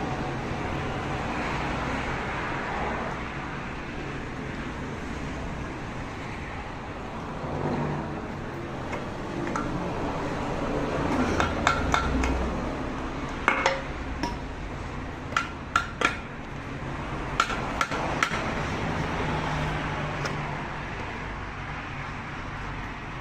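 Sharp metallic clinks and taps of tools and engine parts being handled during reassembly, bunched in the middle, over a steady workshop background hum.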